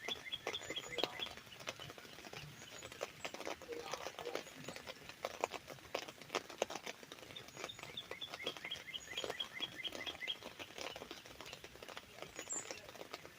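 Raindrops tapping irregularly on an umbrella's fabric canopy, while a songbird sings a quick series of repeated high notes twice: once ending about a second in and again from about the middle to three-quarters of the way through.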